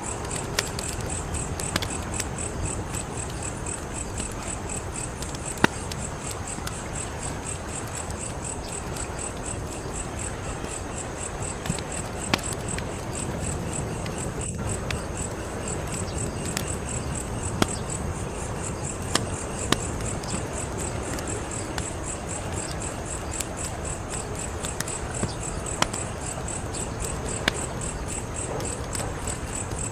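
Wood fire crackling, with sharp irregular pops over a steady low rush, while crickets chirp in a continuous, evenly pulsing high trill.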